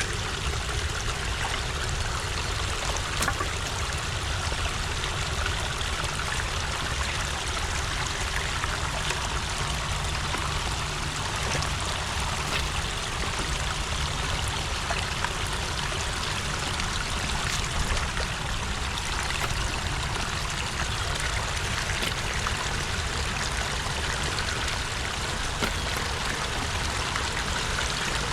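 Water rushing and trickling steadily at a beaver dam, with a constant low rumble beneath the splashing.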